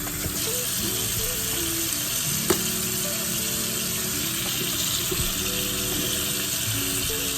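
Kitchen tap running steadily into a sink as vegetables are washed under it, with a brief click about two and a half seconds in. Soft background music plays underneath.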